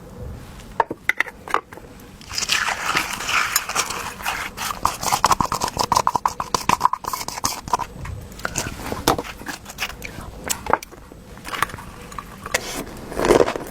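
Close-miked eating sounds: chewing and biting with many small wet clicks, and a longer noisy stretch from about two to seven seconds in, typical of noodles being slurped.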